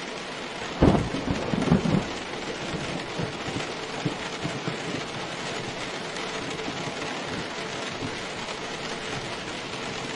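Steady rain falling, with a sudden clap of thunder about a second in that rumbles on with a few loud peaks for about a second before settling back under the rain.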